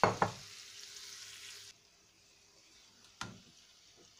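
Onion and garlic sizzling gently in oil in a frying pan, with two quick knocks right at the start. The sizzle cuts off suddenly under two seconds in, leaving only a faint hiss and one more knock near the end.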